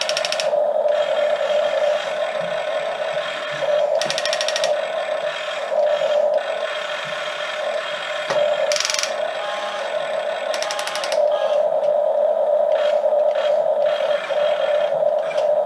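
Electric motors and plastic gearboxes of radio-controlled toy excavators whirring steadily, broken every few seconds by short bursts of rapid ratchet-like clicking.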